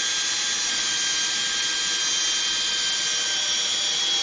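Cordless drill running at a steady high whine, spinning a 500-grit sandpaper pad to wet sand a plastic headlight lens.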